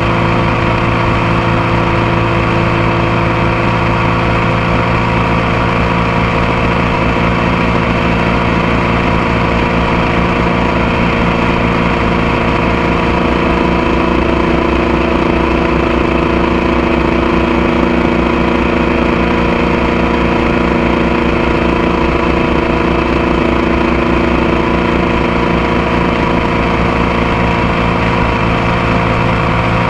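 Motorcycle engine running steadily at a constant pitch, with no revving or gear changes, heard up close from the bike's foot peg.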